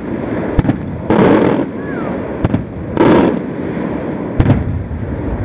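Aerial firework shells bursting: sharp cracks about every two seconds, with two longer, heavier booms between them, loud.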